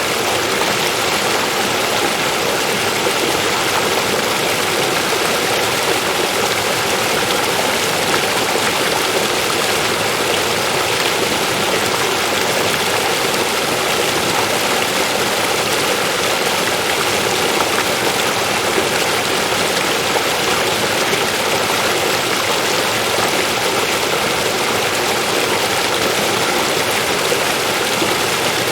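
River water flowing and splashing over rocks: a steady, even rushing.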